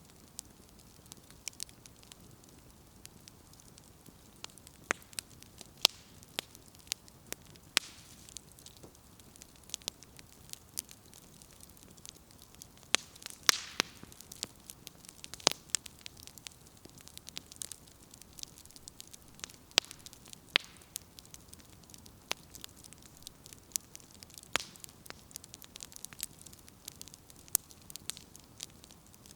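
Campfire of burning firewood crackling: irregular sharp pops and snaps over a soft hiss, with a louder flurry of pops about halfway through.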